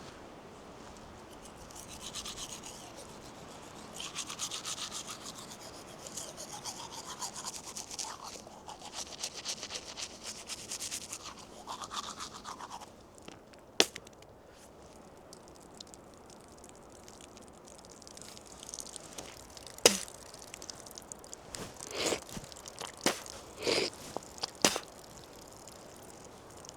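Scratchy rubbing and scraping for about ten seconds, then a sharp click and, later, a few quick knocks.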